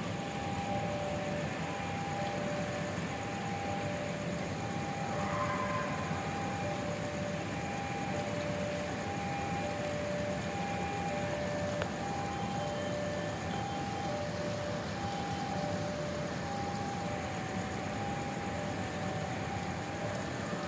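Railway level-crossing warning alarm sounding steadily, an electronic two-tone signal going high-low about once every second and a quarter, over a steady rushing noise.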